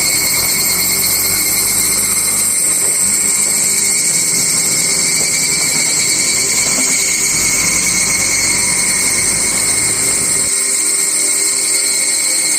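Steady, loud buzzing chorus of insects, shrill and unbroken. A low rumble runs underneath and cuts off suddenly near the end.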